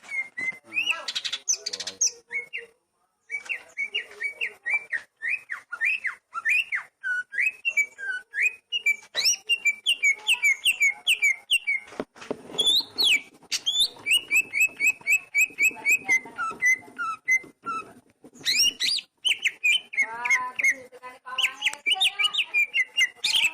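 Oriental magpie-robin (kacer) singing a varied song of quick runs of repeated whistled and chattering notes, with a short pause about three seconds in.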